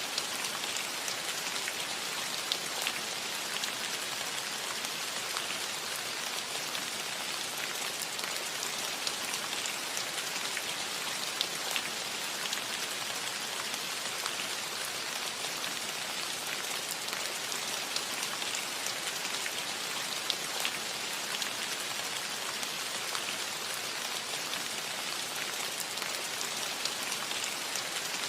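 Steady rain falling on a metal roof: an even hiss of rain with scattered sharper drop ticks.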